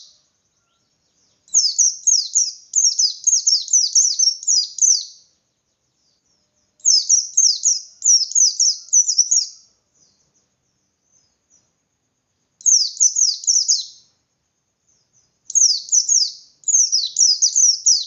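A pleci (white-eye) singing its fast, aggressive 'ngalas' song: four bursts of rapid, high, down-sweeping notes, each a few seconds long, with short silent pauses between them.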